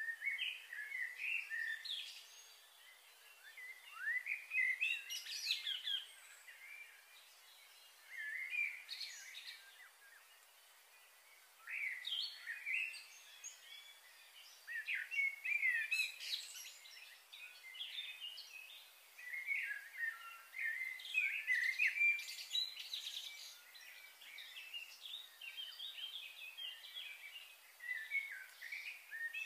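Birds singing and chirping in short, quick phrases every few seconds, over a faint steady hiss of light rain.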